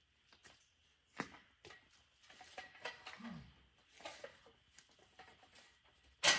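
Scattered faint knocks and scrapes from handling metal hog-trap parts in thick mud, with a short grunt about three seconds in. It ends in a sudden loud metallic clang.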